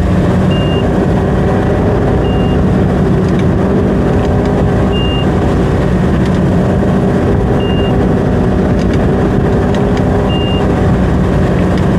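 Tow boat's engine running steadily under load, with a short high electronic beep repeating about every two and a half seconds.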